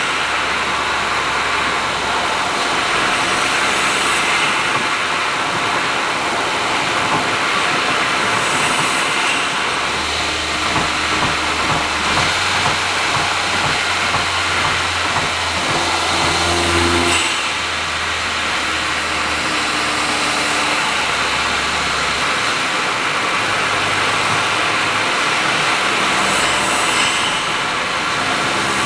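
Honda S660's small turbocharged three-cylinder engine breathing through an HKS aftermarket exhaust, cruising at expressway speed with a steady low drone that swells and eases as the throttle changes, over constant tyre and road noise.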